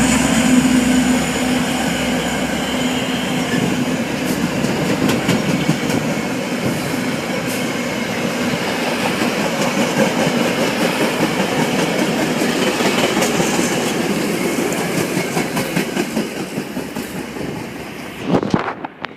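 Metra commuter train rolling slowly past, its wheels clacking over the rail joints in a steady rumble that slowly fades. A sharp knock comes about 18 seconds in, and the sound then drops away.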